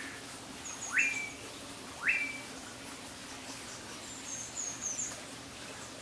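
Two loud bird calls about a second apart, each a quick rising note that levels off and trails away. Faint, very high chirps from other small birds come around them.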